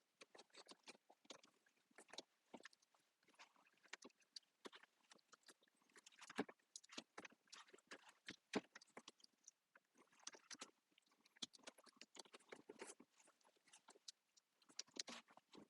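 Faint, irregular small clicks and crackles of hands working with wires and plastic trim parts.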